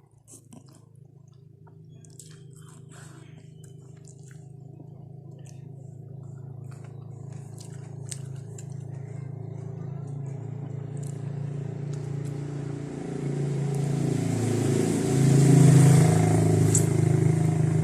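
A motor vehicle's engine hum growing steadily louder as it draws near, at its loudest near the end. Small clicks from eating are heard in the first half.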